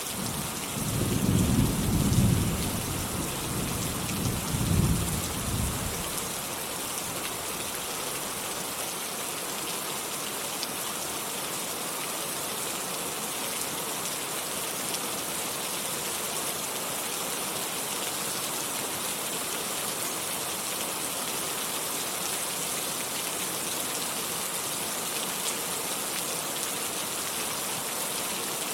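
Steady rain falling, with a roll of thunder rumbling low in the first few seconds, swelling twice and dying away by about six seconds in.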